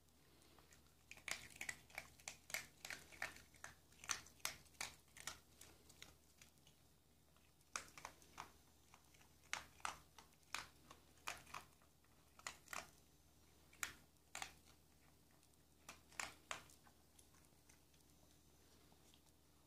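A dog chewing dry kibble: faint, irregular crunches in quick clusters that stop a few seconds before the end.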